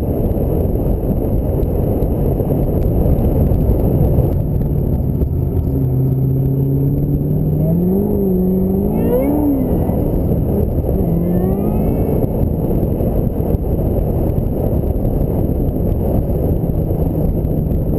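Ford Mustang SVT Cobra driving, with a steady rumble of road and wind noise. About six seconds in, the engine note comes up, holds, then rises, drops and rises again as the car accelerates through the revs, fading back into the rumble a few seconds later.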